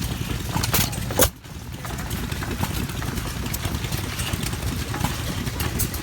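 2½ HP Gade hit-and-miss engine running, with a steady low-pitched chugging and a sharp click about a second in, followed by a brief quieter moment.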